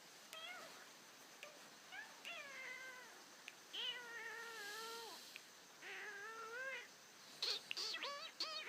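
Cat meowing: a series of about five meows with wavering pitch, one long drawn-out meow in the middle, and a few sharp clicks near the end.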